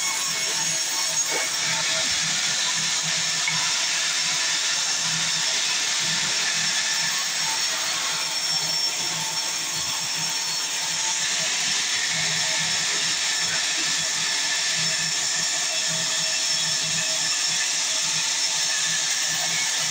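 Sawmill saw running steadily through mahogany timber, one even, unbroken noise with no pauses.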